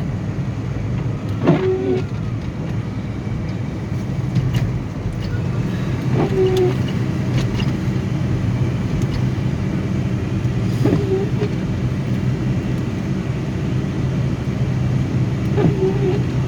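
Steady engine and tyre noise inside a car's cabin, driving on a snowy highway. Four times, evenly about every four and a half seconds, the windshield wipers make a short squeak and thump as they sweep.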